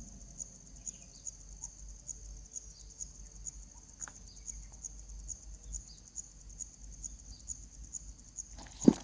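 An insect, cricket-like, chirping steadily in a high, even, repeating pulse over a low hum. A sudden loud knock or scrape comes right at the end.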